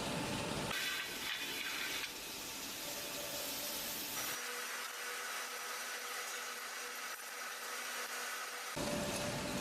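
Factory machinery noise: a steady, hissing mechanical din from production-line equipment. Its character changes abruptly several times.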